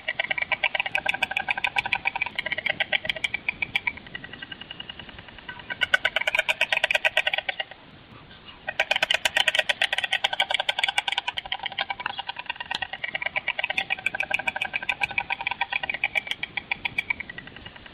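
Stork bill-clattering: a rapid, wooden rattle of clicks in long bouts, dropping away briefly about four seconds in and again around eight seconds before starting up again.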